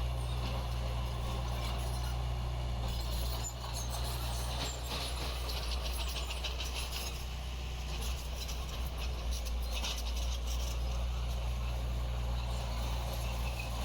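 Diesel engine of heavy construction machinery running steadily with a low rumble, with a stretch of fast metallic rattling in the middle.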